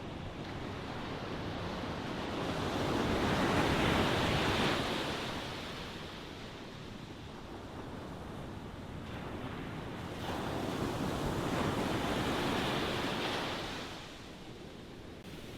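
Ocean waves breaking and washing on the shore, two swells of surf rising and falling.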